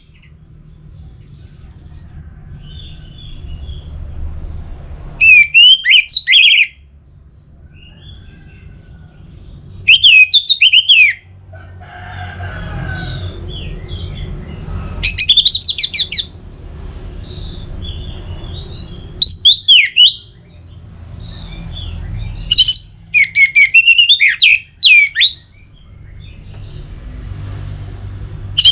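Orange-headed thrush (anis merah) singing in short, loud phrases of fast warbled and trilled notes, one every four to five seconds, about six in all. A low background rumble runs between the phrases.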